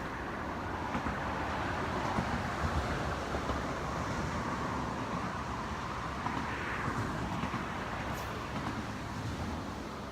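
Steady rushing outdoor background noise, even throughout with no distinct events.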